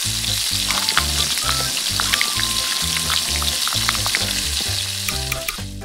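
Diced bacon, potato, carrot and onion sizzling in hot oil in a miniature clay pot, stirred with a tiny spoon that clicks lightly now and then. Background music with a repeating bass line plays underneath, and everything cuts off near the end.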